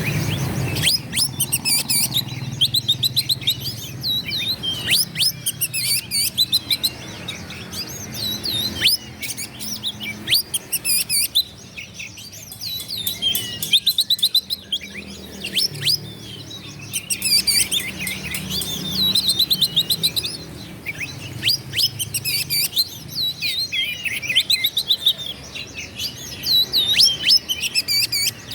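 Oriental magpie-robin singing a fast, varied song of rapid chirps, trills and whistled phrases, in bouts of a few seconds with short pauses between them. A faint steady low hum runs underneath.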